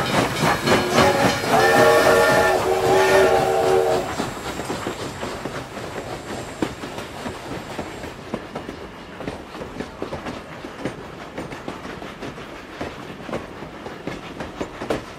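Steam whistle blowing two held notes near the start, over a fast rhythmic steam-engine chuffing and clatter that slowly fades away.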